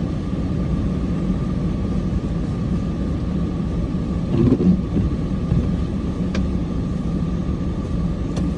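Cummins diesel engine running steadily with a low rumble and a held drone, swelling briefly about halfway through.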